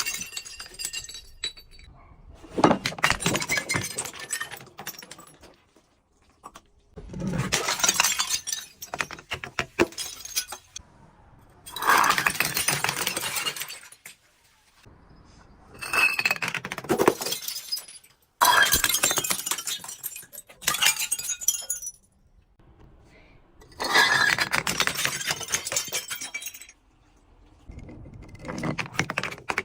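Glass bottles being broken and crushed: a series of crunching, crackling bursts with clinking shards, each lasting one to three seconds, coming about every four seconds with short quiet gaps between.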